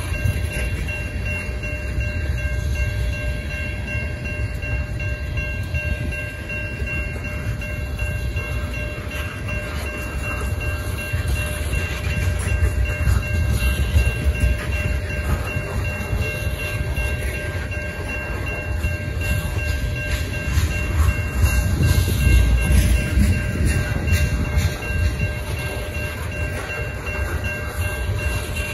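Freight train of tank cars rolling past a level crossing: a steady low rumble of wheels on rail, swelling louder twice, with a few thin steady high tones running through it.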